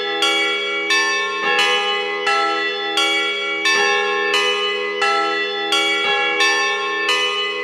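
Church bells playing a tune: a new bell is struck about every three-quarters of a second, and each note rings on under the next.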